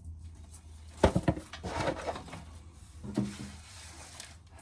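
Knocks and a short rattling clatter from corn being shelled and handled, over a steady low hum.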